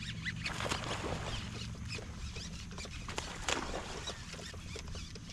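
Small birds chirping faintly over a steady low hum. A short, sharp noise comes about three and a half seconds in.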